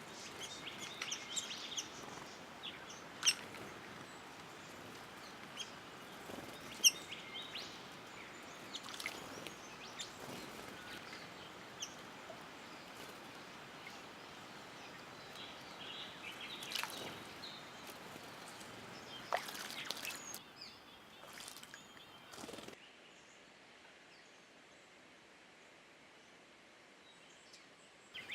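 Honeyeaters calling in short, scattered chirps over a steady background hiss. About three-quarters of the way through, the background drops away abruptly and leaves a quieter stretch.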